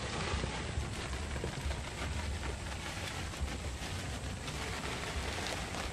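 Steady hiss of light rain falling, with wind buffeting the microphone as a low, uneven rumble.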